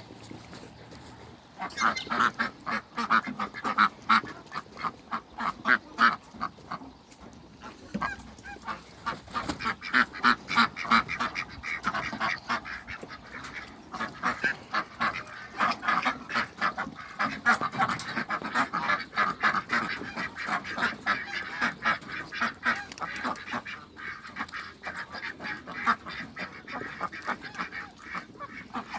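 Ducks quacking in rapid, overlapping runs of short calls, with a few brief lulls.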